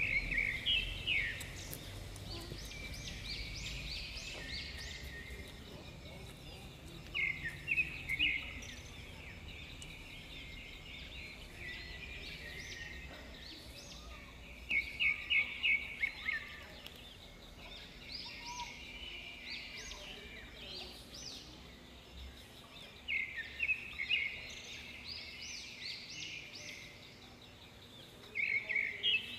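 A bird sings a repeated short phrase of quick notes, some sweeping upward, about five times at intervals of several seconds. A low outdoor background rumble runs beneath it.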